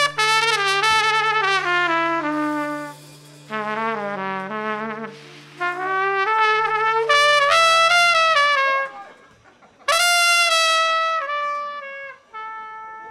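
Trumpet playing held notes and short sliding phrases, with a pause about nine seconds in. A steady low tone sounds beneath it and stops about eight and a half seconds in.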